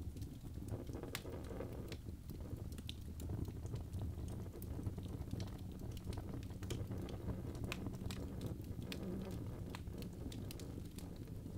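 Birch logs burning in a fireplace: frequent irregular sharp crackles and pops over a steady low rumble of the flames.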